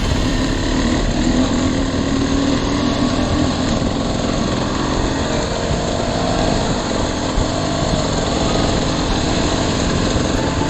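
Dirt bike engine running under way, its pitch shifting as the revs change.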